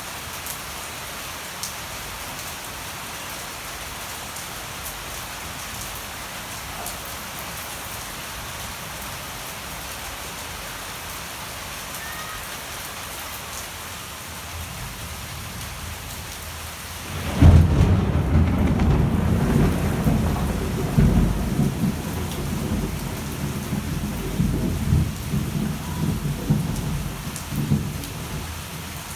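Steady rain falling, then a little past halfway a sudden loud crack of thunder that rolls on as a long, uneven rumble under the rain.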